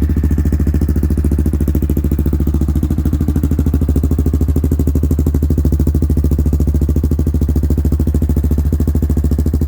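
Wolverine 450 ATV's single-cylinder four-stroke engine idling steadily through a cheap aftermarket hexagon slip-on muffler, with an even, rapid exhaust pulse.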